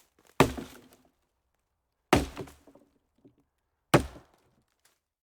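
Three sharp impacts, about two seconds apart, each dying away in a short clatter.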